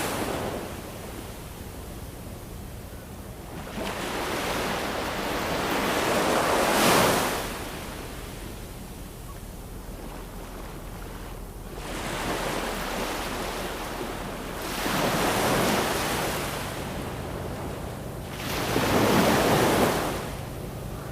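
Ocean waves washing onto a shore: slow surges of surf that swell and fall away, about four in a row a few seconds apart, with a steady hiss of water between them.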